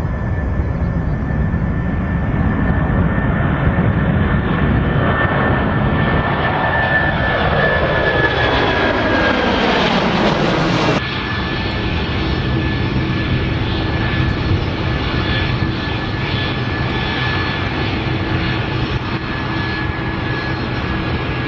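Jet airliner engines passing close: a steady high whine over loud rumble builds, then the pitch falls as the aircraft goes by. About halfway it cuts off abruptly, and a steadier jet engine whine with a low hum follows.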